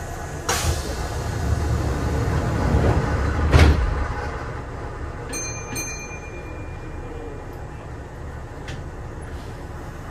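Kintetsu 8000-series electric train at a station stop: a sharp clunk, a low rumble that swells to a second heavy clunk, then two short high electronic beeps whose tone hangs on for about two seconds.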